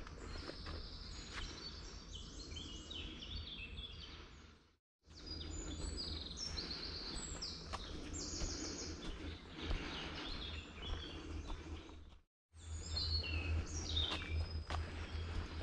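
Several songbirds singing, with repeated fast descending trills, over a low steady rumble and occasional footsteps. The sound cuts out briefly twice, a little under 5 seconds in and a little past 12 seconds in.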